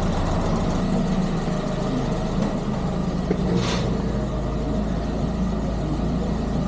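Renault 8 engine idling steadily, with a brief hiss about halfway through.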